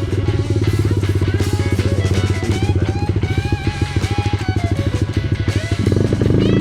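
Dirt bike engine running at low revs in a fast, even chug, starting to rev up just before the end. Background music plays over it.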